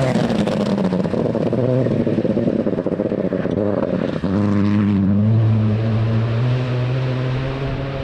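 Rally car engine under hard throttle, its pitch falling and rising in the first half with a crackling rattle over it, a brief drop about four seconds in as it changes gear, then held strongly at high revs.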